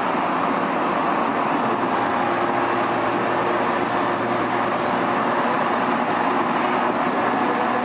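Electric commuter train standing at a station: a steady mechanical hum with a few faint steady tones.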